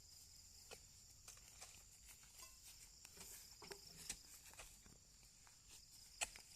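Near silence: a faint steady chirring of crickets or other insects, with scattered faint ticks and knocks and one sharper knock about six seconds in.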